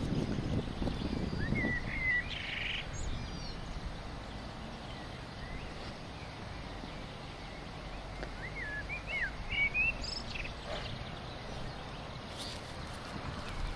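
Small birds calling outdoors: short twittering, gliding chirps, one cluster about two seconds in and another around eight to ten seconds, over a steady outdoor background with a low rumble in the first few seconds.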